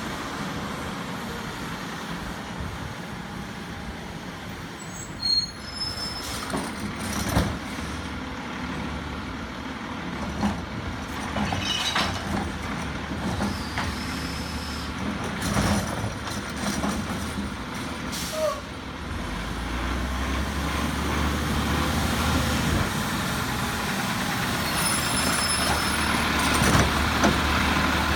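Engine of a Heil Rapid Rail automated side-loader recycling truck running, with several sharp air-brake hisses and clanks along the way. The engine sound gets louder and heavier about two-thirds of the way through.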